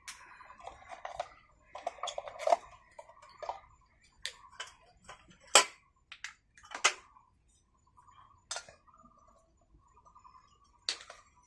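Several sharp, separate clicks and light knocks, spread irregularly over several seconds, as of small objects being set down or handled, with faint voices in the background.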